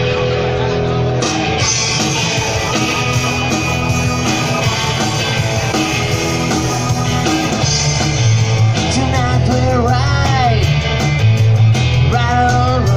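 Live rock band playing a song with guitar, bass and drums; pitch-bending vocal-like lines come in about nine seconds in.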